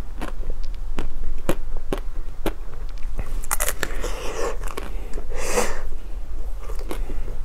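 Close-miked biting and chewing of a firm black snack: sharp wet mouth clicks come about twice a second. Two longer crackling passages fall a little past halfway. A steady low electrical hum runs underneath.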